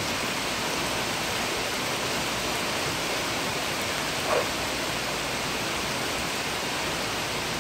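Heavy thunderstorm rain pouring steadily, an even hiss of a downpour.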